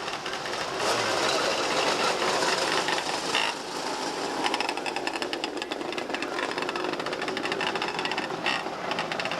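Engines of a field of small open-wheel race cars running on the track, a loud, rapid pulsing buzz.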